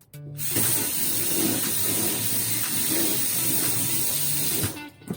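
Water running steadily from a tap for about four and a half seconds, then shut off, with faint background music underneath.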